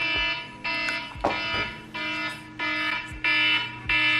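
Electronic wake-up alarm beeping in a steady repeating pattern, about three beeps every two seconds.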